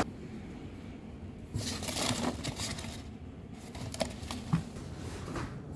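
Rustling, crinkling and short clicks of things being handled, in two clusters, about a second and a half in and again about four seconds in, over a low steady background hum.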